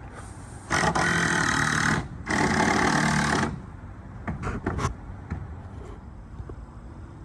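An electric power tool runs in two steady bursts of about a second each, with a short gap between them, followed by a few light knocks.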